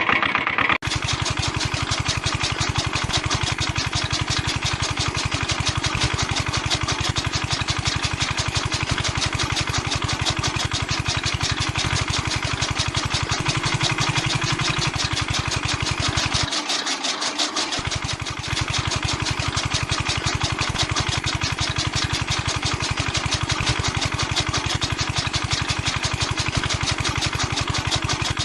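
Small diesel engine running steadily with a rapid, even firing beat.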